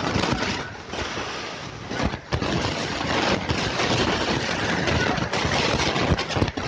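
Floodwater rushing and pouring like a waterfall: a loud, steady rushing noise.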